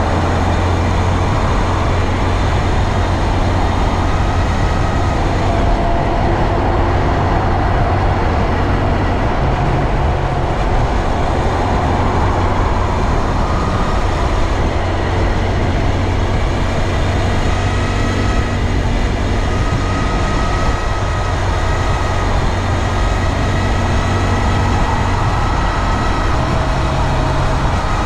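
2022 Honda Grom's single-cylinder engine and drivetrain running steadily under way, mixed with wind and road noise, with faint wavering whines on top. This is the noise the owner says is still there after the dealer replaced the drive chain with an O-ring chain.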